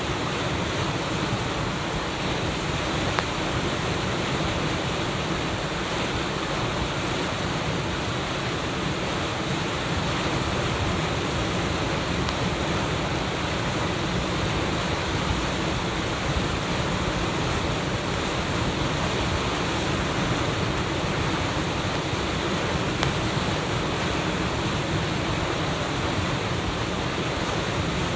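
Typhoon-swollen river water rushing steadily over an artificial reef, a constant wash of flowing water.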